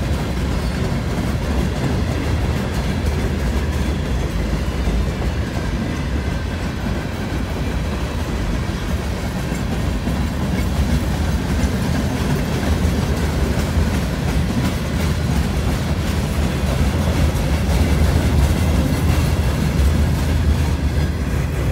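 CN freight train of steel gondola cars rolling past, a steady noise of steel wheels on the rails that gets a little louder near the end.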